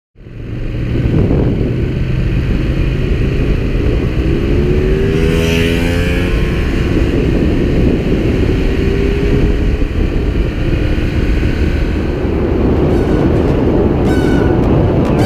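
Motorcycle engine running at road speed with heavy wind noise, starting abruptly and continuing steadily, with a brief gliding change in pitch a few seconds in.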